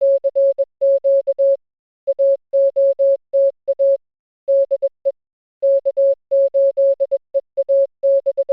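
Morse code (CW) sent as a single steady beep tone, keyed in dots and dashes, in several groups separated by short pauses.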